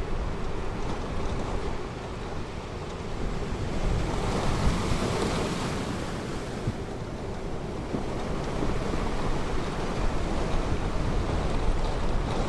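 Ocean surf washing onto a beach, a steady rush with one wave swelling and breaking about four seconds in. Wind buffets the microphone with a low rumble.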